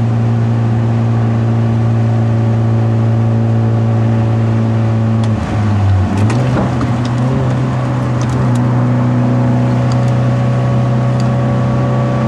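Hyundai Genesis Coupe 2.0's turbocharged four-cylinder engine running under steady load, heard from inside the cabin while driving. About five and a half seconds in the engine note briefly dips and breaks off, then picks up again.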